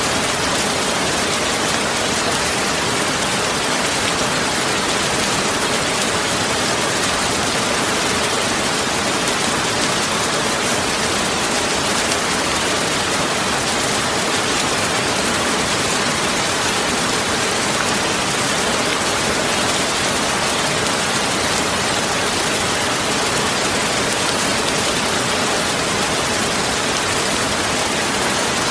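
Steady heavy rain falling, a dense even hiss with no single drops or thunder standing out.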